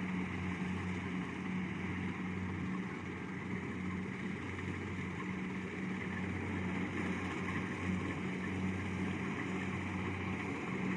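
Kubota DC70 Plus combine harvester running steadily as it cuts rice: an even, low engine hum with a broad mechanical noise over it.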